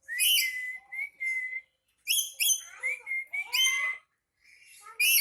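Black-capped lory giving loud, shrill, harsh calls in several bursts with short gaps between them: the agitated calling of an angry pet lory.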